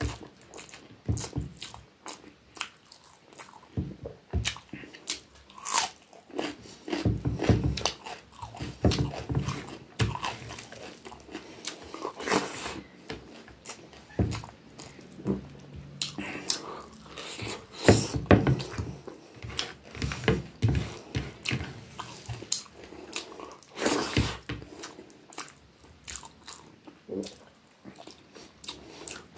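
Close-miked chewing and mouth sounds of a person eating rice by hand: irregular smacking and clicking.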